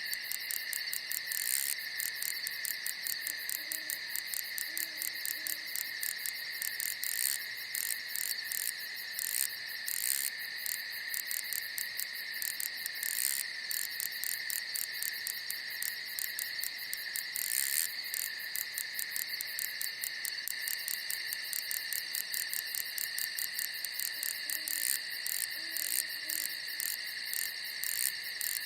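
Night chorus of crickets: a steady high trilling with rapid chirping over it. Twice a faint low call of a few short notes sounds behind it, once early and once near the end.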